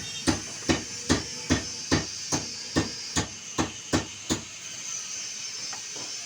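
Hammer blows struck in a steady rhythm, about two and a half a second, that stop about four seconds in.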